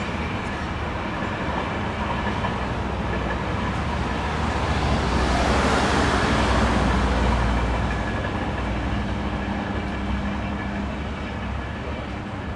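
Freight train of cargo and tank wagons rolling past, a steady rumble of wheels on rail with a faint ringing tone over it. It swells louder about halfway through, then eases off toward the end.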